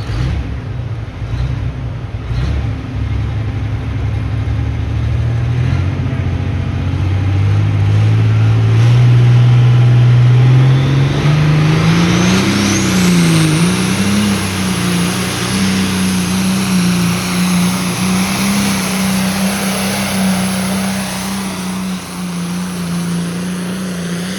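John Deere 6030 pulling tractor's diesel engine revving up over several seconds and then held at high revs. It runs steady with a brief dip about halfway through, as the tractor pulls the weight sled. A high whine climbs along with the revs and then holds level.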